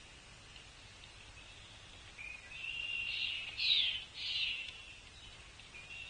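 Wild bird calling: a thin, steady high note followed by two short, harsh, buzzy notes about half a second apart.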